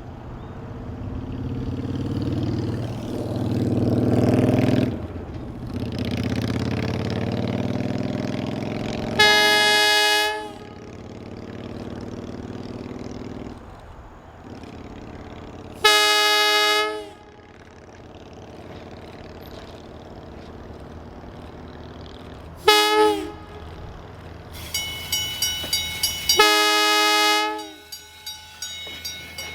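East Troy Electric Railway train sounding its horn in the long-long-short-long grade-crossing pattern: three longer blasts and one short one. A low rumble swells and fades before the horn, and a bell rings rapidly and regularly near the end.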